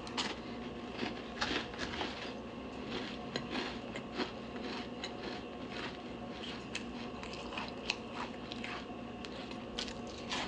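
Close-up biting and chewing of crunchy cookies: irregular crisp crunches throughout, over a faint steady hum.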